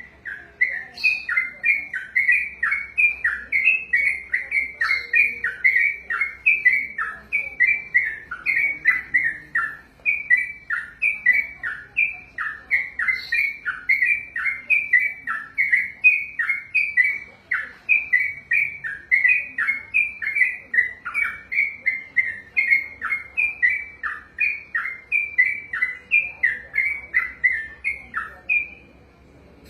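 Sooty-headed bulbul (trucukan) singing a long unbroken ropel: a fast run of short notes that slide downward, about two to three a second, stopping shortly before the end.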